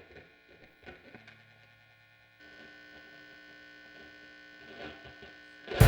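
A quiet, steady electrical hum with faint scattered clicks, stepping up a little louder about two and a half seconds in. Just before the end, the band comes in loudly.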